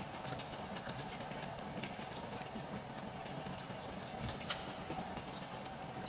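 Close-up eating sounds of someone chewing a filled flatbread wrap: soft, irregular wet mouth clicks and smacks, with one sharper click about four and a half seconds in.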